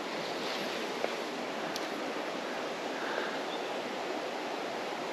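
Small creek's water running over its bed, a steady even rush, with one small click about a second in.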